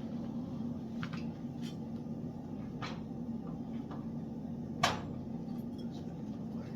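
A steady low hum with a handful of light clicks or knocks, the sharpest about five seconds in.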